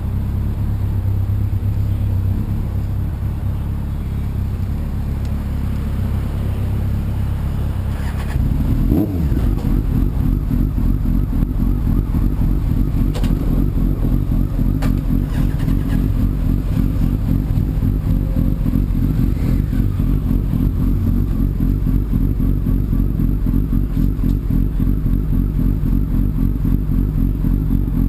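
Sport motorcycle engine idling, then a short rev about nine seconds in, after which it runs louder and steady.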